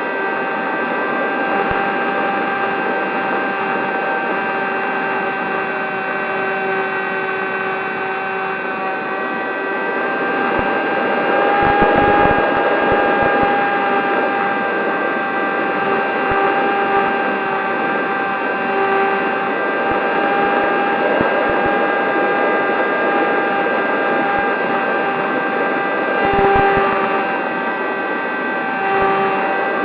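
Electric RC plane's motor and propeller whining steadily at a near-constant pitch in flight. Wind buffets the microphone twice, in the middle and near the end.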